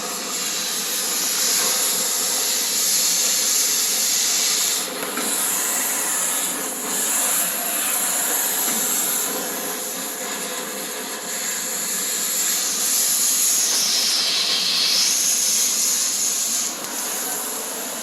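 Cutting torch blowing through a rusted truck-bed bolt: a loud, steady hiss of the cutting flame with a light crackle of sparks.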